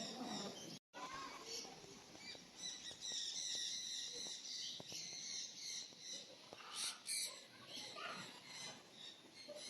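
Birds chirping and calling in an aviary: rapid high chirps through the middle and two short, loud calls about seven seconds in. The sound cuts out completely for a moment just before the first second.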